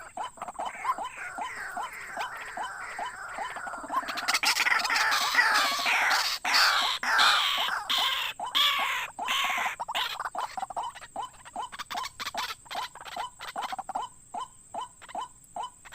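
White-breasted waterhen (ruak-ruak) calling: a run of short repeated notes, two or three a second, swelling a few seconds in into a louder stretch of harsh croaking calls, then settling back to the repeated notes.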